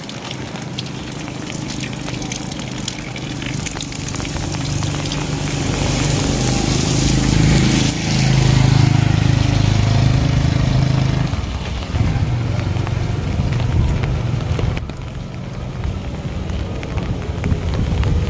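Rain falling steadily while a motor vehicle's engine hum draws near, is loudest about halfway through, then fades as it passes.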